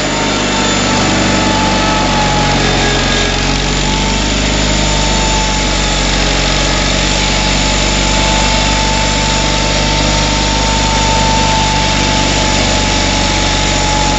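Kohler engine of a Simplicity Sunstar 20GTH garden tractor running steadily, with a faint high whine held over it.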